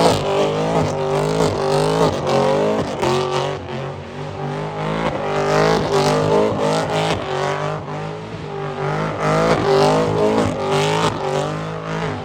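A car's engine revving hard and tires squealing, as in a burnout or donuts, with a pitch that keeps wavering up and down.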